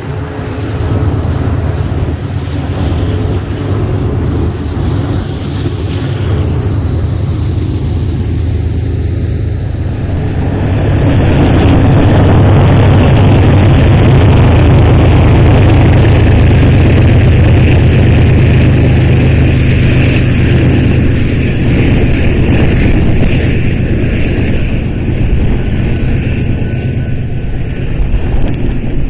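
Double-stack intermodal freight train rolling past: steady rumble of steel wheels on rail over the low, even drone of its diesel locomotive engines. About eleven seconds in, the sound changes abruptly to another stretch of passing train, louder.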